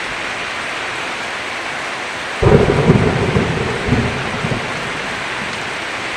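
Heavy rain falling steadily, with a sudden thunder clap about two and a half seconds in. The clap rolls into a rumble that swells again a second later, then dies back under the rain.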